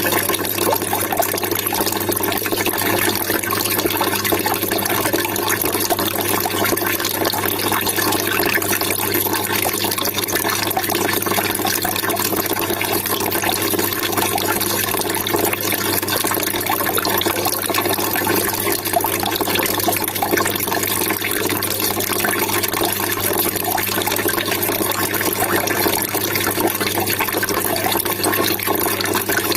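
Steady trickling, splashing water running without a break, with a faint steady low hum underneath.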